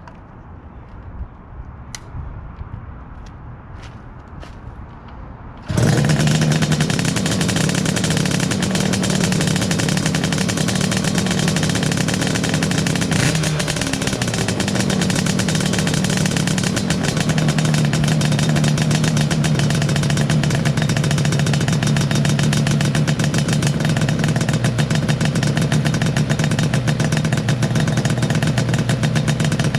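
Cold start of a 1981 Yamaha RZ350 (RD350LC), a two-stroke parallel twin: a few sharp clicks, then the engine catches suddenly about six seconds in and runs steadily, with a brief dip around the middle.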